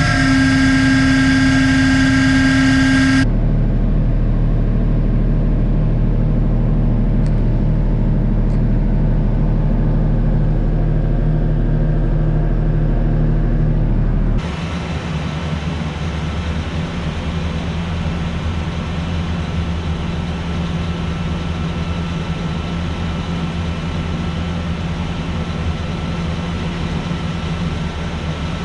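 An engine running steadily, with two sudden changes in its sound, about three seconds in and about halfway through.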